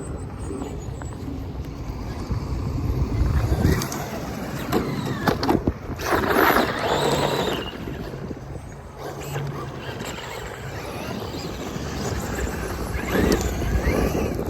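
Wind buffeting the microphone in a steady low rumble, with louder rushing surges of noise about three, six and thirteen seconds in.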